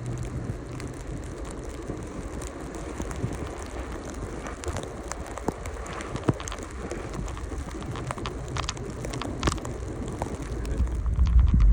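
Off-road vehicle crawling through snow: a low engine rumble under irregular crackles and sharp knocks, several standing out about four to nine seconds in.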